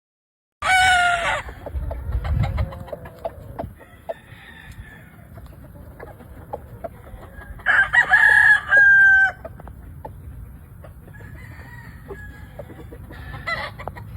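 Gamefowl roosters crowing: a short loud call just after the start, a full crow lasting about a second and a half around eight seconds in, and a shorter call near the end, with scattered soft clucks in between.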